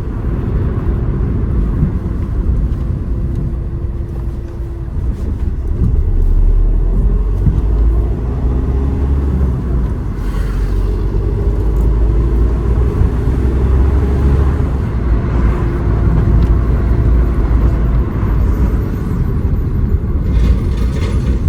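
A car on the move: a steady low road and engine rumble, with the engine note rising and falling.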